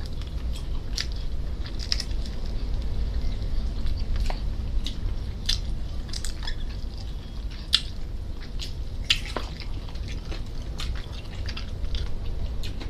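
People chewing and lip-smacking as they eat roast chicken with their hands: irregular short, wet clicks and smacks, over a steady low hum.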